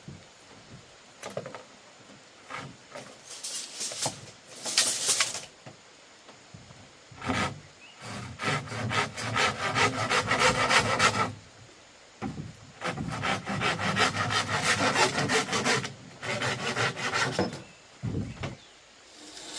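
Hand saw cutting through wood in several bouts of quick back-and-forth strokes with short pauses between them. The longest bouts last about three seconds.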